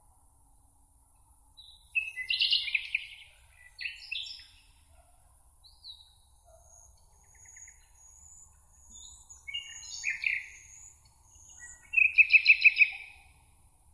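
Songbirds singing: short separate phrases of chirps and trills a few seconds apart, the loudest near the end a fast run of repeated notes. A faint, thin, high call comes and goes in the middle.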